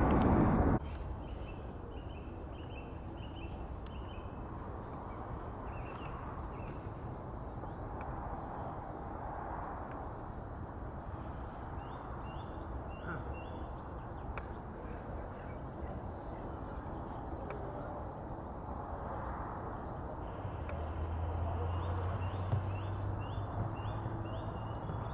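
Birds calling in short runs of repeated high chirps over a steady outdoor background noise. A loud noise cuts off abruptly under a second in, and a low steady hum joins about four-fifths of the way through.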